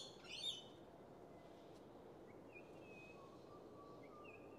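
Faint birds chirping over quiet outdoor background: a quick cluster of chirps right at the start, then a few thin, faint whistled notes and short glides later on.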